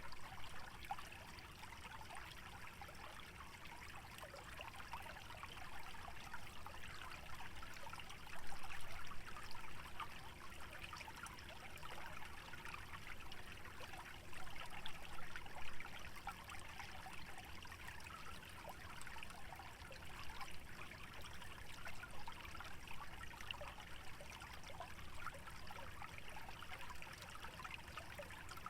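Small wetland stream trickling steadily, a fine continuous bubbling and splashing over a low rumble, with two brief louder spells about a third and halfway through.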